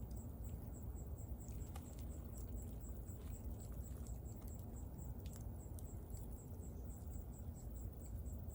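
Wood bonfire burning with a steady low rumble and scattered sharp crackles and pops. An insect chirps steadily, about four times a second.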